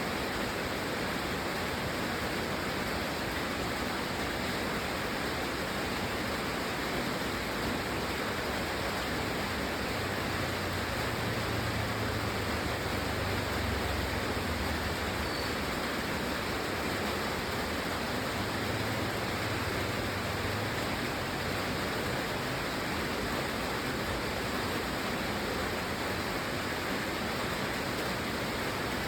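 Steady rain falling, an even hiss without breaks. A faint low rumble rises under it near the middle and fades again.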